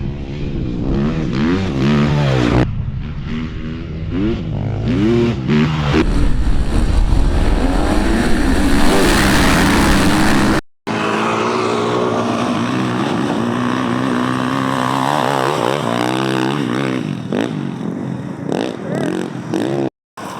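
Dirt bike engines revving up and down hard as they race, the pitch rising and falling repeatedly. The sound breaks off abruptly about halfway through and resumes straight away with more engines.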